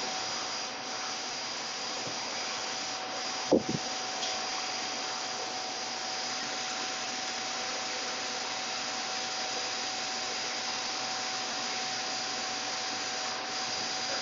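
Steady whooshing of running fan or blower machinery with a faint constant whine, and a single short knock about three and a half seconds in.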